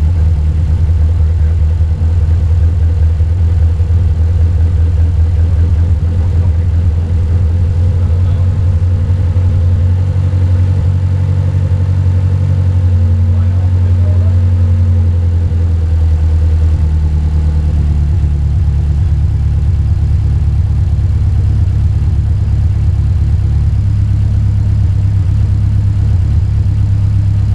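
Newly built four-cylinder car engine fitted with individual throttle bodies, idling steadily and smoothly; the idle note shifts slightly about halfway through.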